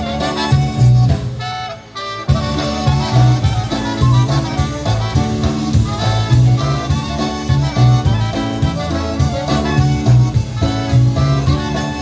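Live polka band playing an instrumental passage: horns carrying the melody over a bouncing bass and drum-kit beat, with a short break about two seconds in before the band comes back in.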